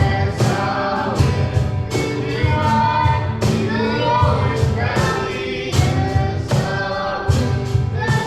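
Live worship music: a group of voices singing together over a band with a steady beat of drums and bass.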